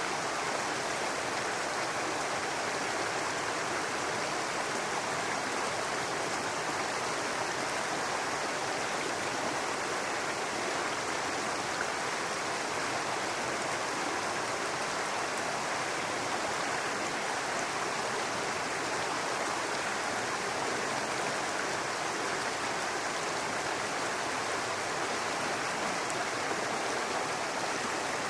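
Small forest brook running over rocks, a steady babbling rush of water.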